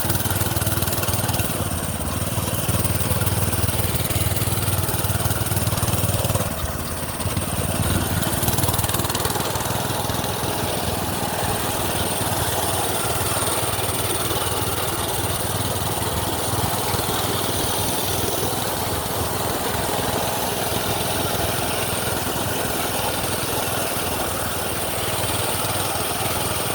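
Minibike's small gas engine running steadily under way, with wind and road noise over it; the engine's low hum eases off about six and a half seconds in.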